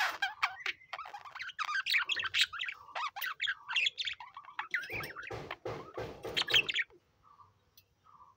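Several budgerigars chirping and chattering in quick, overlapping warbles and squawks. The busy chatter stops about seven seconds in, leaving a few faint, soft calls.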